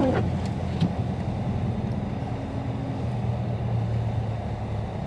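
Steady low drone of a Dodge Charger Scat Pack's 392 HEMI V8 at a light, even throttle, with tyre and road noise, heard from inside the cabin while driving on a snow-covered road. A couple of faint clicks come within the first second.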